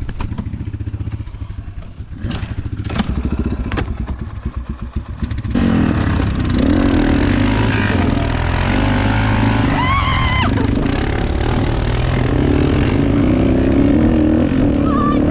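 Dirt bike engines. For about five seconds one engine ticks over with a pulsing beat, then the sound jumps suddenly to louder bikes revving and riding.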